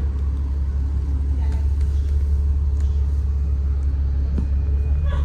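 Steady low rumble of a city bus running, engine and road noise heard from inside the passenger cabin.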